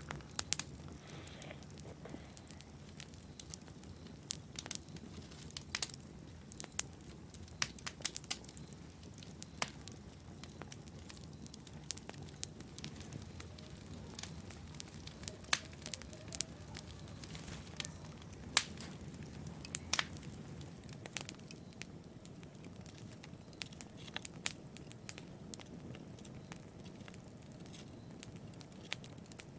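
Wood fire burning in a fireplace: irregular sharp crackles and pops, several a second at times, over a low steady rush of flame.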